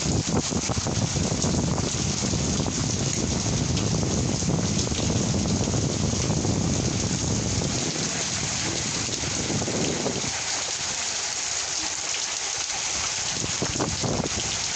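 Heavy rain falling steadily in a pre-monsoon nor'wester storm, with scattered close drops, under a low rumble that dies away about two-thirds of the way through.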